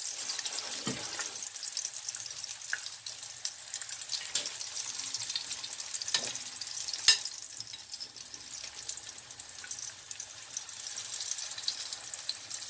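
Yuca fritters frying in shallow oil in a frying pan, still browning on the first side before they are turned: a steady sizzle with fine crackling. There is one sharp click about seven seconds in.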